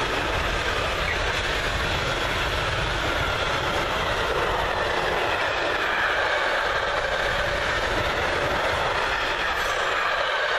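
Intermodal freight train of container and swap-body flat wagons rolling past at speed: a steady, loud rush and rumble of wheels on rail.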